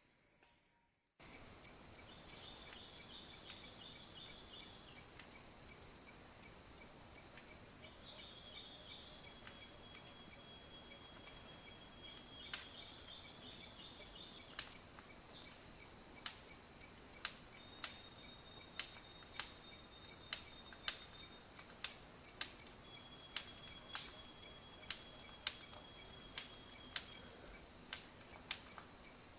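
A steady, high-pitched insect trill, typical of a cricket, starting suddenly about a second in, with sharp clicks repeating at an uneven pace that grows to more than one a second.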